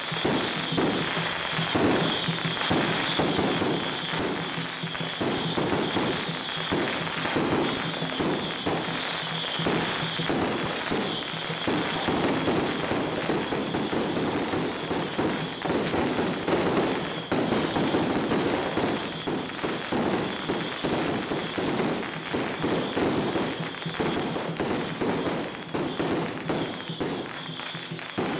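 A string of firecrackers crackling in a dense, continuous rapid-fire stream, with music going on behind.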